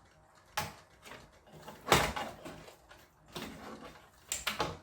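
Handling noises from an opened-up LCD TV: a series of scrapes and knocks as its panels and wiring are moved, four separate bursts with the loudest about two seconds in.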